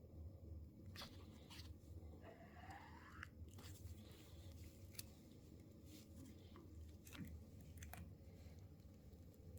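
Faint handling noise: scattered light clicks and taps over a low steady hum, with a brief rising squeak about two and a half seconds in.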